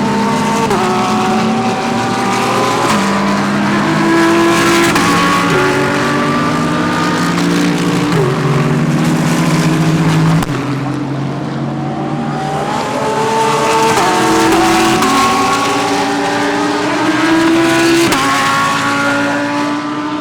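GT3 race cars going through a corner one after another, their engines rising in pitch and stepping with each gear change as they brake and accelerate away.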